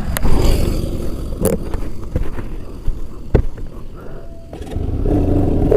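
Bajaj Pulsar RS200 single-cylinder motorcycle engine running under low wind rumble on the mic, with a few sharp knocks. A steadier, clearer engine note comes in near the end.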